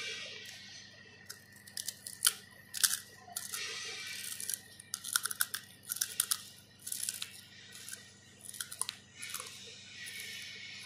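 Close-up crunching and chewing of crispy fried pork skin: a long run of sharp, irregular crunches from about a second in, loudest early on, with soft mouth noise between bites.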